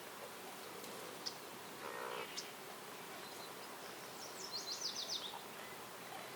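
Wild songbirds calling: two short high chirps, then a quick run of about six high, rapid notes a little past the middle. A flying insect buzzes briefly about two seconds in, over a steady soft hiss of outdoor ambience.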